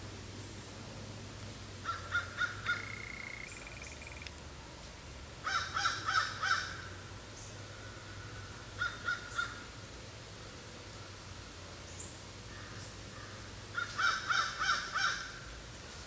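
A bird calling outdoors in four runs of short repeated calls, four to six notes in each run, a few seconds apart.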